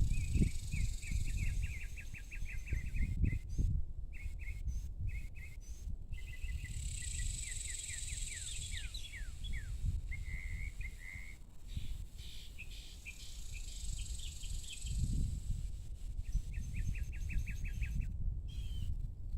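Evening outdoor chorus: small birds giving fast series of short chirps and several quick downward-sliding chirps, with a high steady insect buzz at times and a low rumble underneath.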